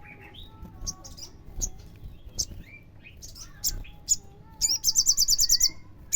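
Olive-backed sunbird calling: scattered high chirps and sharp notes, then near the end a loud, rapid trill of about ten high repeated notes lasting around a second.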